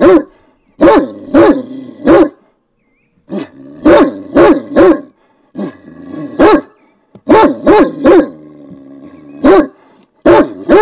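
A dog barking repeatedly, in quick runs of two or three barks separated by short pauses.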